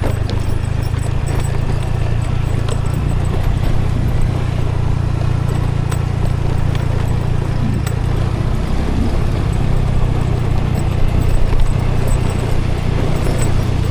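Scooter running while being ridden, its engine and road noise making a steady low drone.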